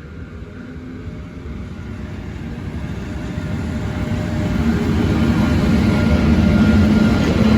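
Class 73 locomotive and train drawing near, a low rumble with a steady hum that grows steadily louder.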